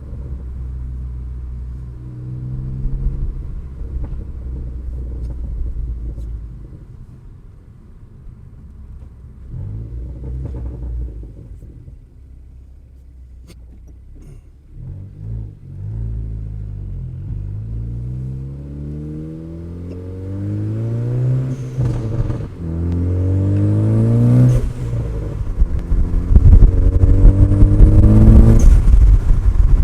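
Ford Focus ST's 2.0 EcoBoost four-cylinder with a big Garrett GTX2867R turbo, running low and steady at first. From about halfway it accelerates hard, the engine note rising and dropping back four or five times as it pulls through the gears, and gets louder near the end.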